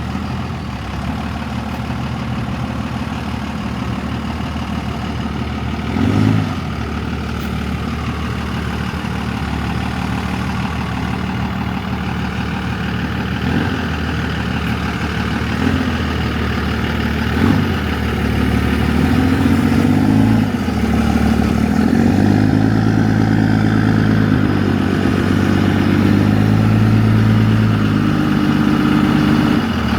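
Truck engine idling steadily, with a few short bumps in engine speed, then running louder and a little faster from about two-thirds of the way in, as when it is eased forward.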